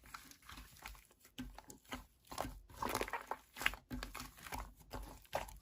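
Slime being played with by hand: irregular crinkly crackling and small clicks as it is pressed and squeezed.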